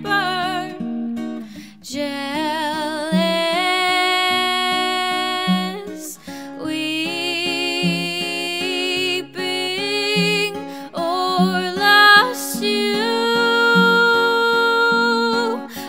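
Acoustic guitar picking a steady, even pattern under a young female voice singing long wordless notes with vibrato.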